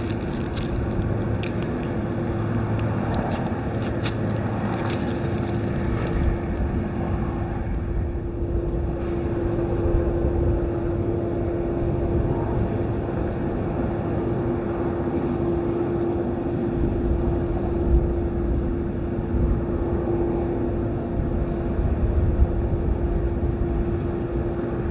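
Idling truck engine giving a steady hum, with wind rumbling on the microphone.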